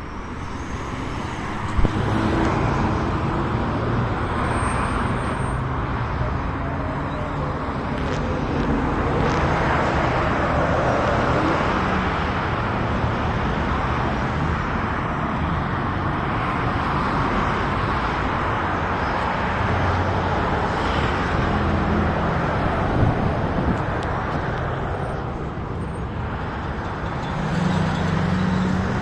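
Road traffic noise: a steady wash of vehicle sound that swells and fades as vehicles pass, over a low engine hum, with a short knock about two seconds in.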